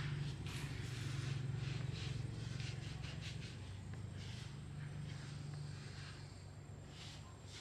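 A small engine running with a steady low hum, easing off slightly in loudness, with scattered light clicks and taps over it.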